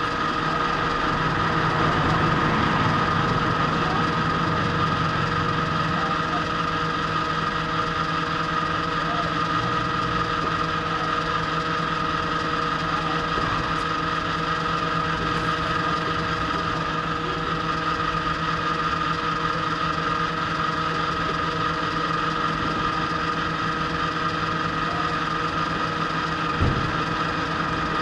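Kawasaki Z H2 SE's supercharged inline-four engine idling steadily, with a constant high tone running through the engine note. A single short knock sounds near the end.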